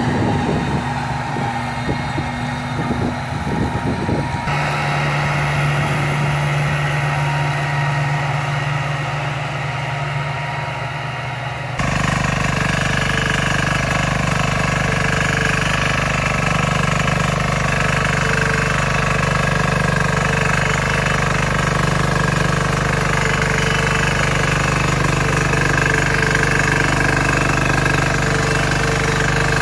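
Walking-tractor (power tiller) diesel engines running steadily. The sound changes abruptly twice, about four and twelve seconds in, as one running engine gives way to another.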